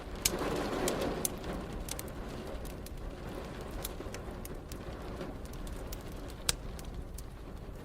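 Wood fire crackling, with scattered sharp pops (the loudest just after the start, about a second in, and near the end), over a steady hiss of rain. A brief swell of noise near the start fades away.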